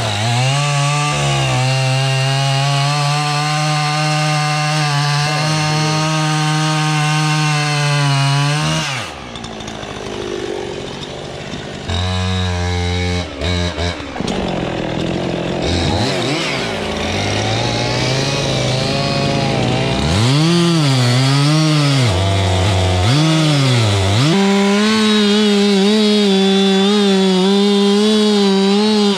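Gasoline chainsaw cutting oak wood. The engine holds a steady high speed for about nine seconds, drops back to a low speed, is revved up and down several times, then holds a higher steady speed again near the end.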